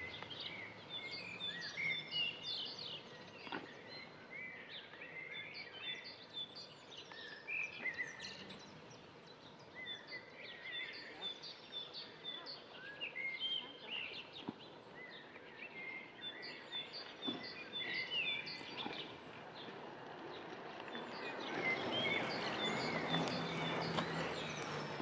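Several birds chirping and calling over one another in short, quick, rising and falling notes, with a few single taps. Near the end a steady hiss rises underneath.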